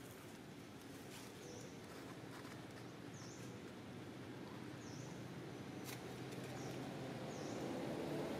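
A bird repeats a short high call about every one and a half to two seconds over outdoor ambience. A low rumble grows steadily louder toward the end, and there is a single short crackle about six seconds in.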